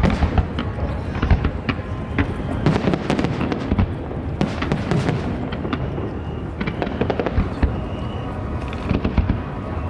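Aerial fireworks going off in a dense run of bangs and crackling bursts over a continuous rumble.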